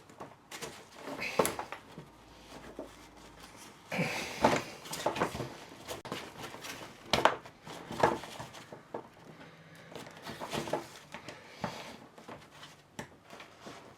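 A telescopic suitcase handle being worked apart by hand: irregular clicks, knocks and scrapes of its tubes and fittings, busiest about four seconds in and again around seven to eight seconds.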